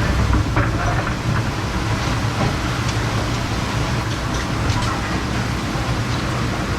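A steady mechanical drone with a low hum, in the dish room of a commercial kitchen, and scattered sharp clinks and clatter of dishes and cutlery on top.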